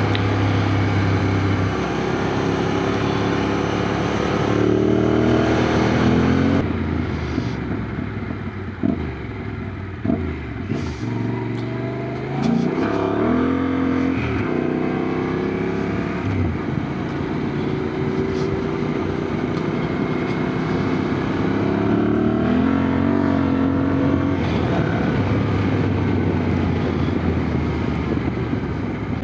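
Yamaha Ténéré adventure motorcycle engine under way, its pitch climbing as it accelerates and dropping back at each gear change or let-off, several times over, with a steady rush of wind noise.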